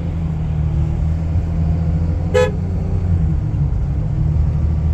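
Steady low vehicle engine and road rumble, with one short horn toot about two seconds in.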